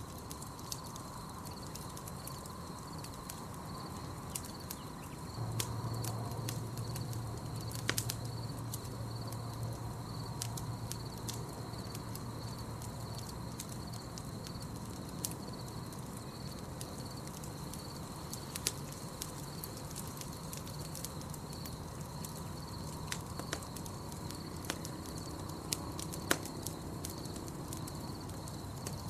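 Campfire crackling and popping in irregular sharp snaps over a steady night-forest ambience, with a steady high-pitched pulsing trill in the background. A low rumble swells in about five seconds in.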